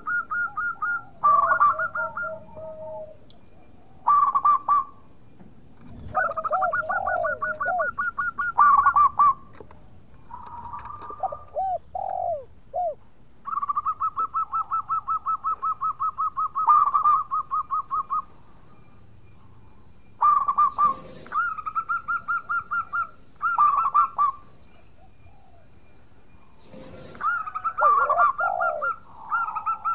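Zebra dove (perkutut) singing its cooing song again and again: phrases of quick, evenly repeated coo notes with short pauses between them. A few lower, curving notes come in among the phrases.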